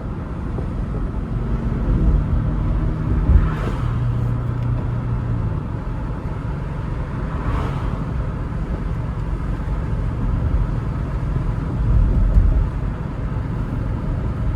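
BMW car being driven, its engine running under a steady low rumble of road noise. The engine note shifts in pitch a couple of seconds in and swells again near the end.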